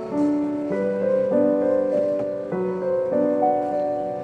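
Background music: a gentle piano tune, its chords changing about every half second to second.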